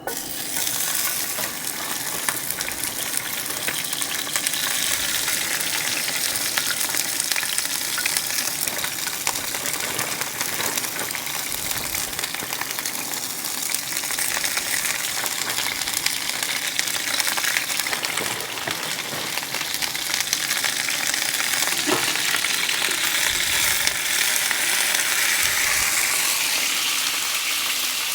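Sliced onions and bell peppers sizzling in olive oil in a hot cast iron skillet, a steady frying hiss that starts suddenly.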